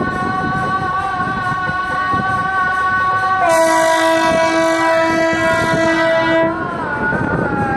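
Train horn sounding one long steady blast of about three seconds, starting a little under halfway through, over background music with a wavering melody.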